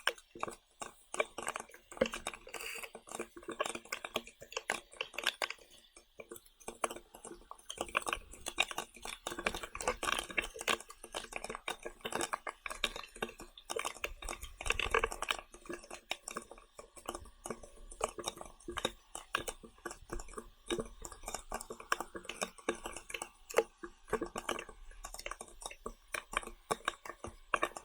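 Eating sounds close to the microphone: chewing, with many small irregular clicks and taps.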